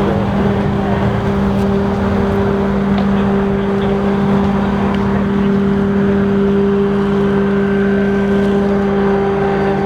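An engine running steadily, a constant low drone that holds one pitch and does not rise or fall.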